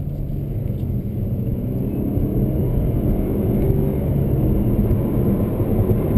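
Cabin sound of a 2021 Chevy Malibu with its 2-litre turbo four-cylinder accelerating hard: engine and road rumble growing gradually louder.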